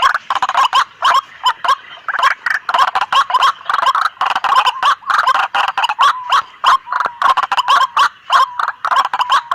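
White-breasted waterhens calling noisily: a dense, rapid stream of short harsh notes, several a second, with a few drawn-out tones mixed in from about six seconds in. This is the gathering chatter used as a lure call for the species.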